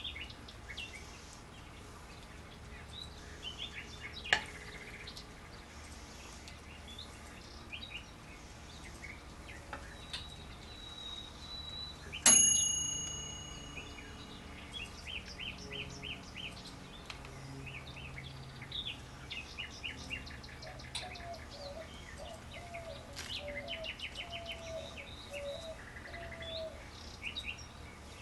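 Small birds chirping throughout, with one sharp ringing clink about twelve seconds in that dies away over a second or so and is the loudest sound.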